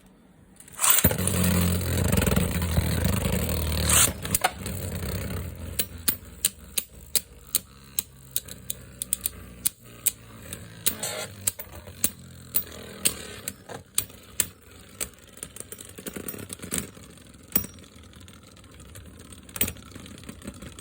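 Beyblade spinning top launched about a second in, spinning with a loud whirring for about three seconds. It then keeps spinning more quietly, with many sharp clicks and knocks.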